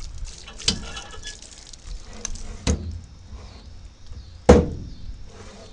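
Three sharp knocks about two seconds apart, the third the loudest, over faint background hiss.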